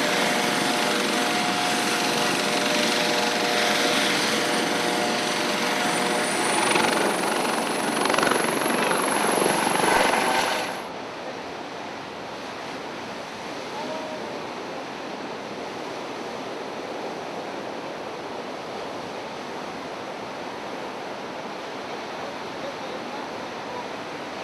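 Helicopter running loud and steady with a droning hum and a high whine that rises partway through, cut off suddenly at about the middle. It gives way to a quieter steady rush of wind and surf.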